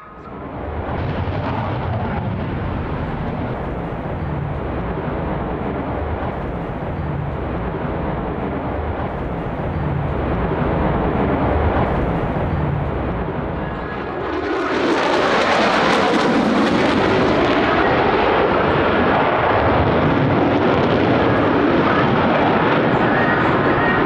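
Single Pratt & Whitney F135 turbofan of an F-35A fighter, its roar building as the jet makes a high-speed pass and fan-break turn. About 15 seconds in it turns much louder and harsher, then stays loud.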